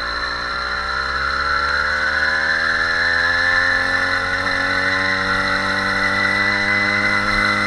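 Small motorbike engine running under way, its pitch rising gradually over the first three seconds or so and then holding steady.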